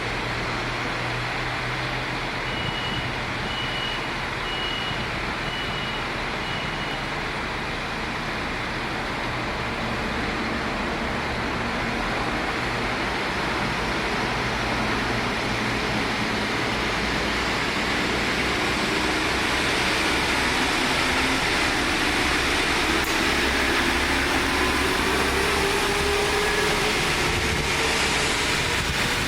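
Pesa SA132 diesel railcars running at the platform with a steady engine drone. A run of about five short high beeps comes a few seconds in. Later the engines rise in pitch and grow louder as the train pulls away.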